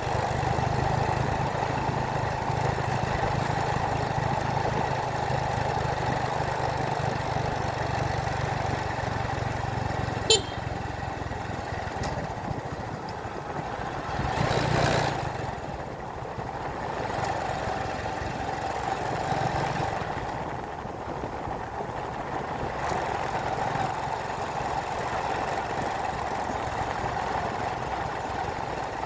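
A vehicle engine running steadily while driving, with road and wind noise. There is a sharp click about ten seconds in and a brief louder rush of noise about five seconds later.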